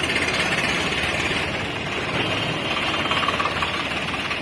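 A truck's engine running steadily with a fast, even clatter.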